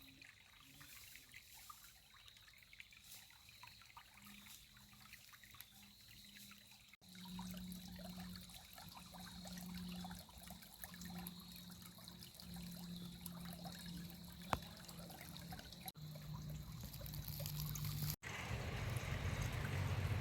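Small creek trickling and bubbling over rocks as a steady wash of running water, faint at first and louder after about seven seconds.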